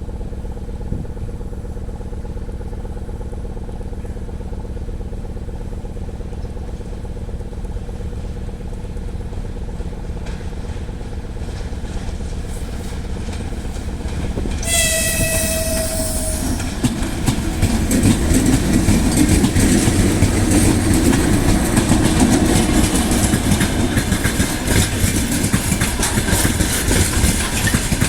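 2EL5 two-section electric freight locomotive humming steadily, then sounding one horn blast of about two seconds about halfway through. After the horn, the louder rumble and clatter of the locomotive and freight wagons rolling on the rails takes over.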